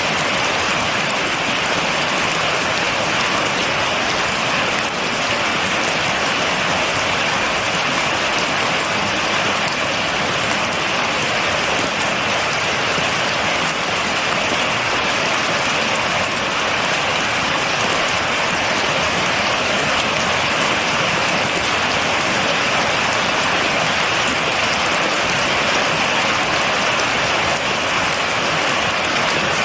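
Steady rain falling and pattering on a surface, without thunder.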